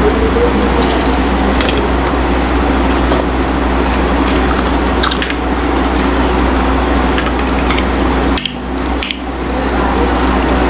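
A person biting into and chewing fried chicken close to the microphone, with a few short, sharp bites spread through the chewing.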